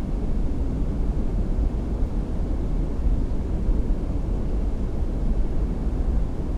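Outboard boat motor running with a steady low rumble.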